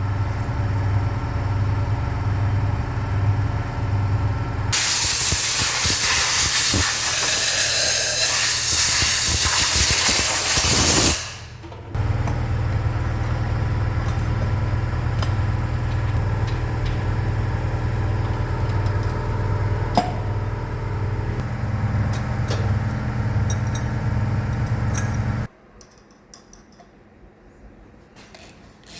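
Steady machine hum with a pulsing low drone, broken for about six seconds by a loud hissing spray. The hum cuts off abruptly near the end, leaving faint clicks.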